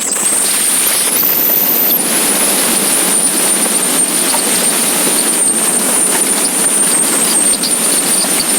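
Motorcycle riding at speed: a loud, steady rush of wind noise over the running engine, with a thin high-pitched whine held throughout.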